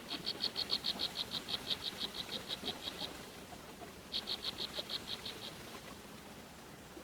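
A high, rapid pulsed trill from a calling animal, about seven short notes a second: one run of about three seconds, then after a pause a shorter run of about a second and a half.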